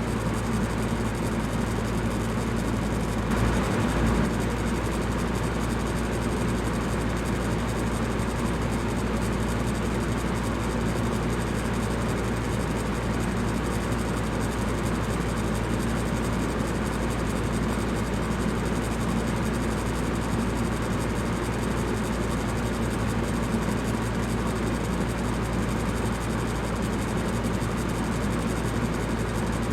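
Electric fan running steadily: an even whooshing rush over a low mains-like hum, swelling briefly about four seconds in.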